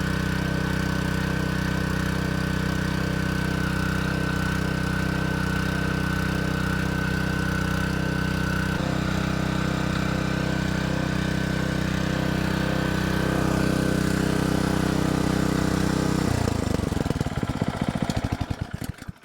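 Honda GX200 single-cylinder four-stroke engine on a 3-inch water pump running at a steady speed, its note changing slightly about nine seconds in. Near the end it is shut off and slows to a stop over about three seconds. The pump is not drawing water, which the owner puts down to a badly seated impeller seal.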